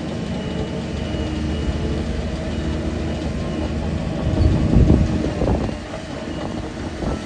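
Shantui DH17 crawler bulldozer working, its diesel engine running steadily with a low rumble that swells louder for about a second, some four and a half seconds in.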